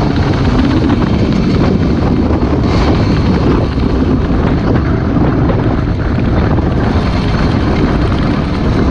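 Motorcycle engine running steadily while the bike is ridden, mixed with a dense rush of wind on the microphone.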